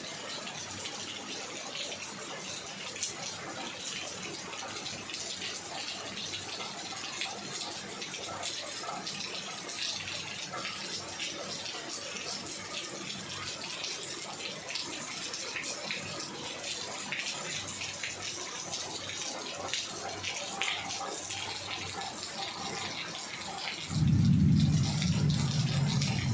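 Heavy rain falling steadily, a dense hiss of drops with many separate drop hits. Near the end a much louder low rumble comes in suddenly and carries on.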